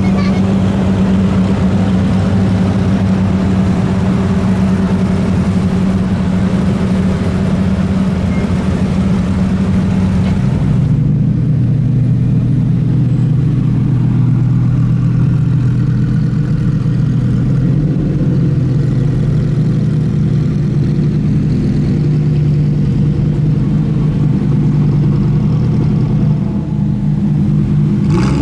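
Car engine running steadily at close range. About eleven seconds in its note drops lower and the sound turns duller, then it holds steady again.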